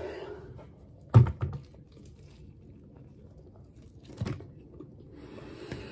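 A person biting into and chewing a sub sandwich loaded with lettuce, with a loud sharp crunch about a second in and another just after four seconds.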